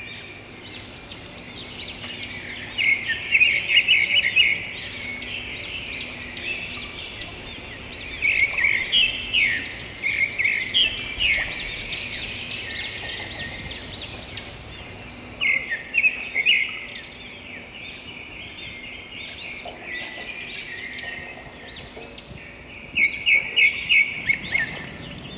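Several birds chirping and singing, with loud bursts of quick repeated high notes every few seconds.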